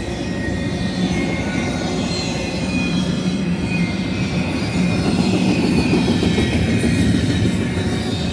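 Long BNSF intermodal freight train passing: steel wheels rumbling on the rails with a faint thin squeal above, getting louder about five seconds in.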